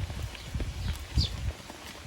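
Eurasian tree sparrows chirping, short high chirps that drop in pitch, about two a second. Dull low thumps and taps run under them for the first second and a half.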